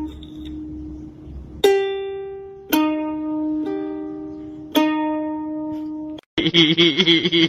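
Ukulele music: single plucked notes ringing out and fading, about four slow notes. A little after six seconds it cuts off abruptly and a louder sound with a wavering pitch, like a voice, takes over.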